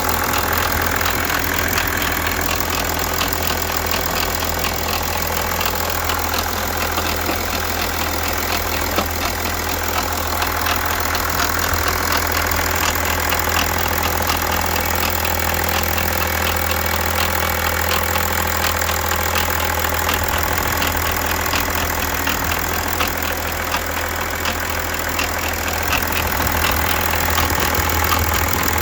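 BMW 730d's M57N2 straight-six diesel idling steadily with a fast, even ticking clatter, a noise the owner puts down to the timing chain.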